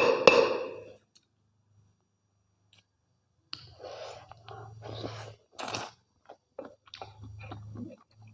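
Close-miked chewing and mouth sounds of someone eating mutton curry with rice: wet smacks and small clicks that start after a pause of a couple of seconds, over a faint low hum.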